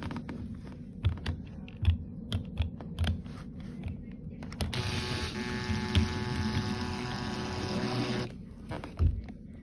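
A string of knocks and taps, then a power drill motor running steadily for about three and a half seconds, with a single thump near the end.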